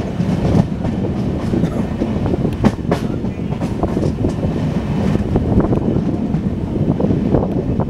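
Passenger train coach running at speed, heard from its open doorway: a steady rumble of wheels on rails, broken by irregular clicks and knocks from the track.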